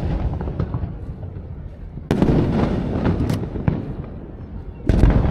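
Aerial fireworks shells bursting: two deep booms, about two seconds and five seconds in, each followed by sharp crackling pops and a long rumbling echo.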